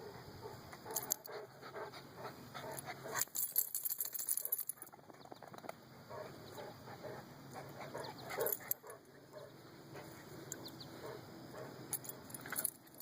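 Dogs at play making short dog noises, mixed with irregular clicks and scuffling. The busiest stretch is about three to five seconds in, with another flurry a little past eight seconds.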